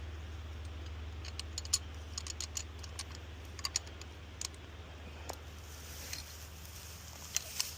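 Scattered light metallic clicks and ticks of a dog-proof raccoon trap being handled and set, over a steady low hum.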